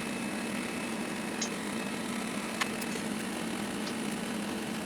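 Steady machine hum with a few faint light clicks.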